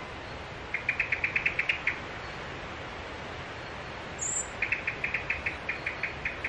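A songbird singing two rapid trills of sharp, high repeated notes, about ten a second. The first comes about a second in and the second runs through the latter half, with a single brief higher chirp between them, over a steady faint hiss.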